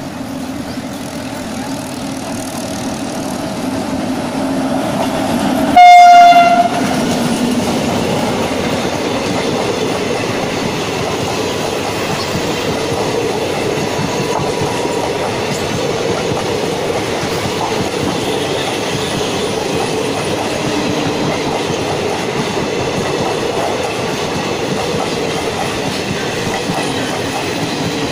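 Indian Railways WAP-7 electric locomotive approaching with a rising hum, then one short, loud horn blast about six seconds in. After it the express's coaches roll past with a steady rumble and wheel clatter on the rails.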